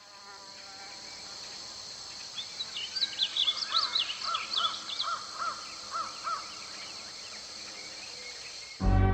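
Steady high-pitched drone of insects, with a bird chirping in quick repeated calls from about two seconds in until about six seconds in. Music with a heavy beat cuts in right at the end.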